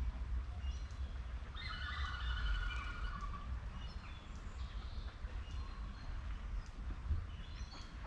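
Outdoor birdsong ambience: scattered bird chirps, with a denser run of calls about two seconds in, over a steady low rumble.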